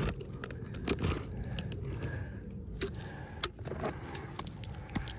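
Scattered light clicks, taps and scrapes of asphalt roof shingles being lifted and handled by hand, with the sharpest click about three and a half seconds in.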